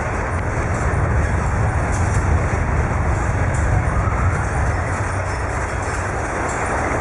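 Earthquake shaking a building: a steady low rumble with faint rattling over it.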